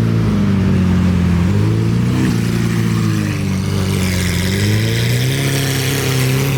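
A loud performance car engine revving and pulling away, its pitch dipping and rising several times.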